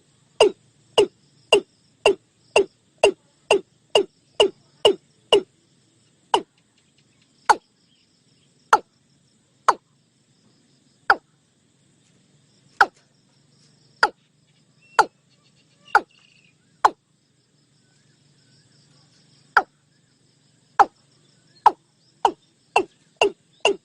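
Watercock calling: a run of short, sharp, downward-sweeping notes, about two a second at first, slowing to about one a second, then after a pause quickening again near the end.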